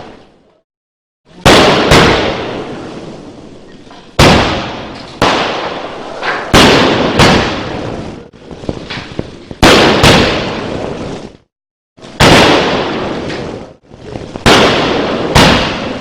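Multi-colour aerial sky-shot firework cake firing: a string of sharp bangs, roughly one a second, each followed by crackling that fades away, with a couple of short pauses between volleys.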